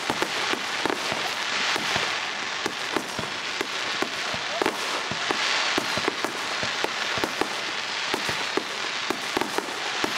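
Fireworks going off: a dense, continuous crackle with many sharp pops and bangs scattered through it.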